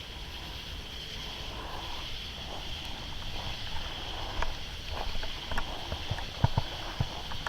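A steady, high-pitched chorus of night insects over a low rumble of wind and handling noise on the camera microphone. In the second half come a series of short knocks and clicks, the loudest a little past six seconds in.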